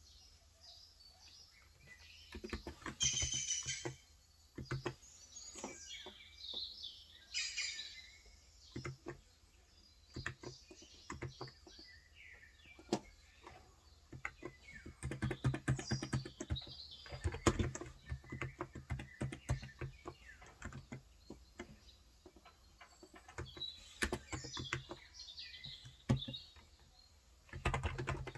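Keystrokes on a Cox Endeavor electrostatic capacitive (35 g) tenkeyless keyboard in irregular runs of soft clicks, densest around the middle, while small birds chirp in the background, most in the first few seconds and again near the end.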